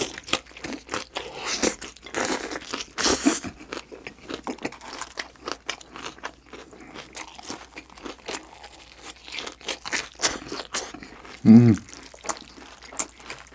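A person chewing and crunching food close to the microphone, with many small wet mouth clicks. A short hummed 'mm' comes about eleven and a half seconds in.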